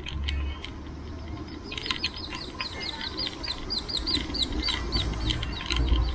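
A bird calling a fast run of short, falling notes, about six a second, for some three seconds, over a low rumble.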